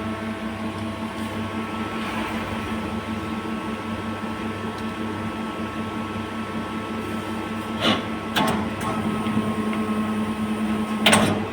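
CNC machine running with a steady hum of several constant tones, with a few short sharp noises in the last few seconds.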